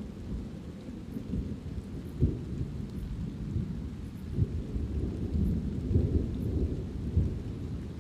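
Thunder rumbling low and continuously, swelling louder several times, over light rain.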